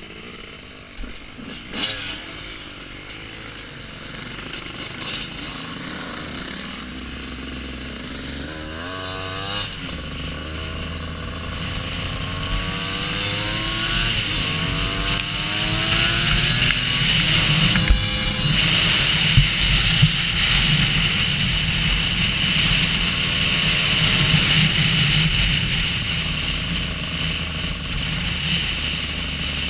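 Off-road motorcycle engines revving and accelerating, growing steadily louder over the first half and then staying loud, with the pitch climbing and dropping as the throttle opens and closes.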